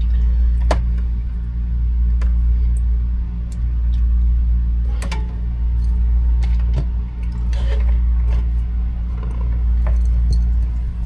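Scattered small clicks and light metallic rattles of tools and crimp connectors being handled during wiring work, over a loud, steady low hum.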